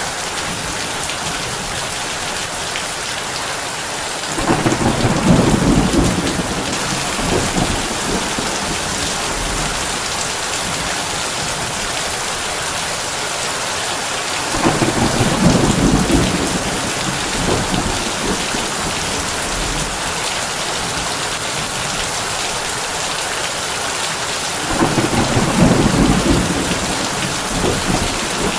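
Heavy rain drumming on a tin roof, a steady hiss, with three low rumbles of thunder about ten seconds apart, each lasting two or three seconds.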